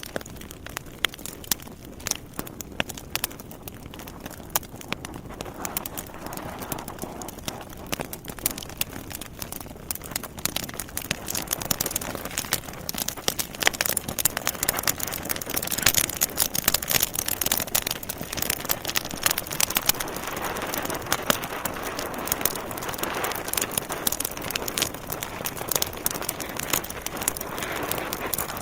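Wood fire burning in a fireplace, logs crackling and popping with many sharp snaps over a steady hiss of flame; the crackling grows denser and louder about halfway through.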